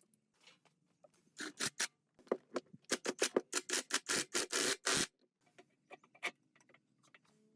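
A quick run of loud scraping strokes, about three or four a second, lasting several seconds, with a few faint clicks after.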